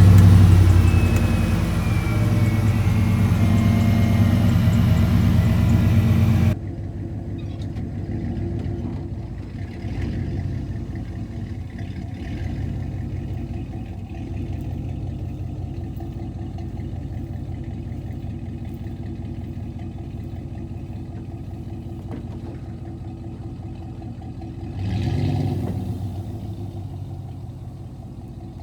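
Chevrolet Z71 pickup's engine, just started, running loud for about six seconds, then dropping off suddenly to a quieter steady engine drone. The engine swells briefly near the end.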